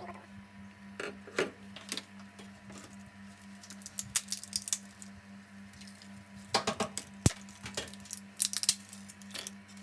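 Scattered clinks and clatters of dishes and utensils being handled, in several short bursts with one sharp knock about seven seconds in, over a steady low hum.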